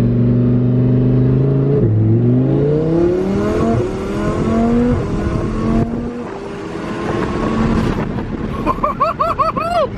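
Twin-turbo Lamborghini Huracán LP610-4's V10 running steadily, then accelerating hard, its pitch climbing through several upshifts, then settling to a lower, steadier note.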